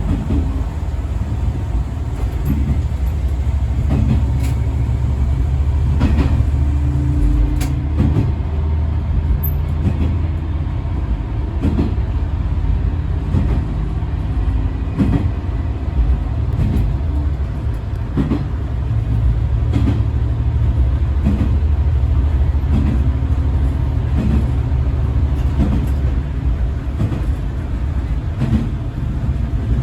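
Diesel railcar under way, heard from the driver's cab: a steady low engine drone, with the wheels clicking over rail joints now and then.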